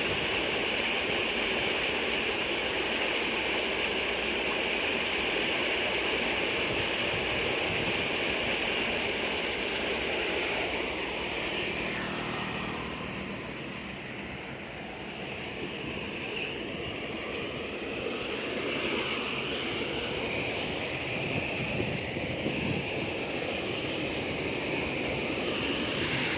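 Rushing water pouring steadily, with storm runoff overflowing. It dips a little in level partway through, then picks up again.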